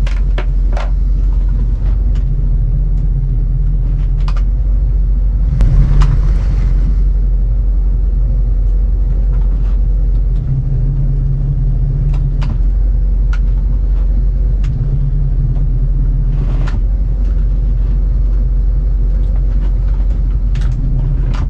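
Motor boat engine running at low speed while manoeuvring into a marina slip, a steady low rumble whose lower note swells and drops every few seconds. About six seconds in there is a brief louder rush.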